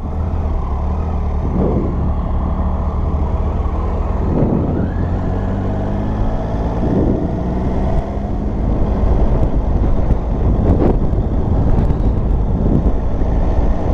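Motorcycle engine running steadily as the bike rides along, its note rising and falling a few times.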